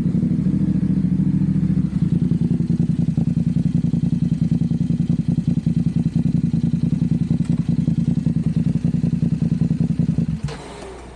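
Motorcycle engine idling steadily with a rapid, even beat, then switched off about ten seconds in.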